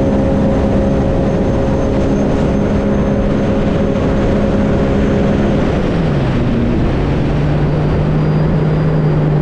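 Stage 1 2021 Sea-Doo RXT-X personal watercraft engine running at high, steady revs during a hole-shot acceleration run, over a heavy rush of wind and water. About six seconds in the revs drop as the throttle comes off, and the engine settles into a lower steady note.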